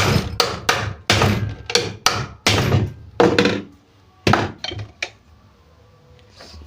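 Hammer blows on a sewing machine's metal part, driving it into place: about a dozen quick strikes with a short ringing after each, stopping about five seconds in.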